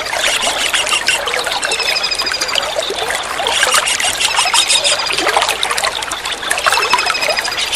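Steady trickling water with a kingfisher's rapid, high-pitched trilled calls sounding over it in several short bursts.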